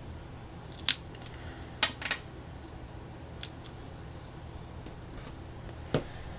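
Planner stickers and paper being handled: a handful of sharp small clicks and snips, irregularly spaced, over a faint steady low hum.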